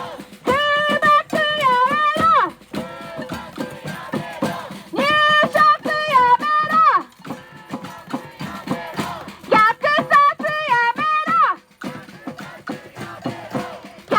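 A singer with guitar accompaniment: three held sung phrases of about two seconds each, with guitar strumming in the gaps between them.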